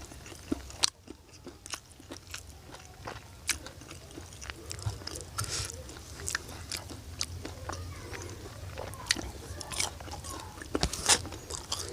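A person eating close to the microphone: crunchy bites and wet chewing, with irregular sharp crackles throughout and a loud crunch about eleven seconds in.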